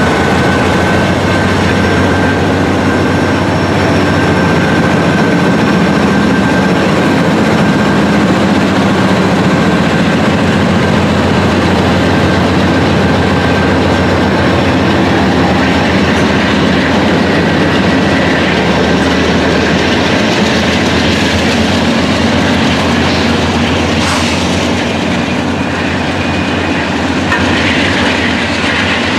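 Norfolk Southern freight train passing close by: the last locomotive goes past at the start, then a long string of loaded covered hopper cars rolls by with a loud, steady rumble and clatter of steel wheels on the rails.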